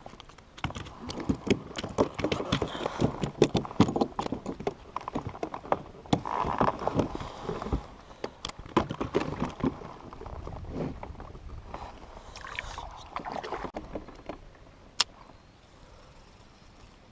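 Irregular knocks, taps and clatter of handling on a fishing kayak, with a single sharp click near the end.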